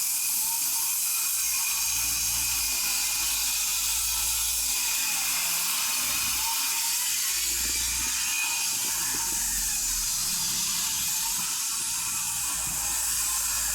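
Angle grinder fitted with a circular-saw blade, running steadily at high speed with a thin high whine, cutting through wood.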